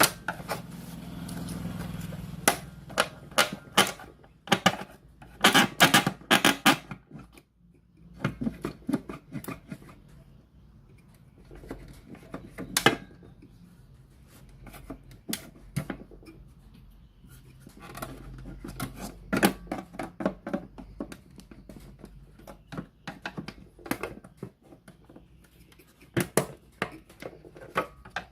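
Irregular clicks, taps and clatter of small tools and parts being handled during work on a radio cassette player, coming in bunches with short lulls between; a brief low hum in the first couple of seconds.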